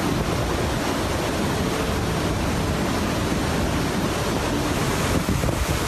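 Hurricane Irma's storm wind and surf: a steady rushing noise, with the wind buffeting the microphone in a low rumble.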